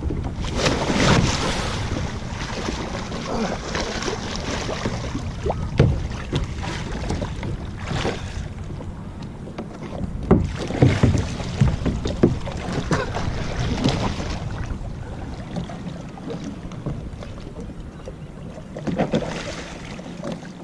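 Water splashing and sloshing in irregular bursts as a man in chest waders struggles in deep water to climb back onto his kayak, a deep-water re-entry that he cannot manage. The splashing is busiest about halfway through, over steady wind rumble on the microphone.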